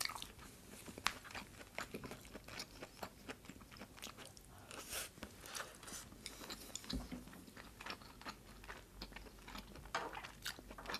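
Close-miked mouth chewing a bite of braised short rib stew: faint, irregular soft clicks and smacks. A brief low bump about seven seconds in.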